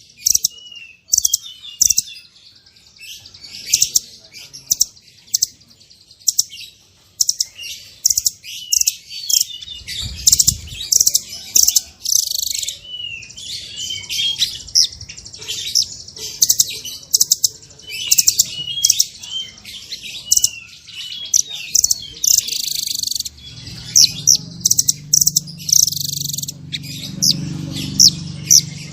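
Blue nuthatch (Sitta azurea) calling continuously with a run of short, sharp, high notes, many of them sliding in pitch. A low rumble runs underneath in the last few seconds.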